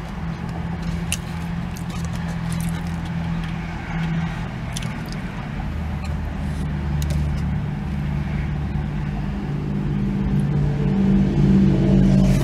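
Car engine idling, a steady low hum heard from inside the cabin that grows a little louder in the second half, with scattered light clicks and rustles of a paper food box being handled.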